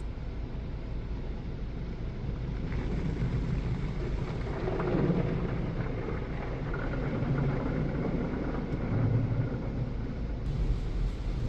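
Car wash running: a steady rush of spraying water over the car with low rumbling that swells twice.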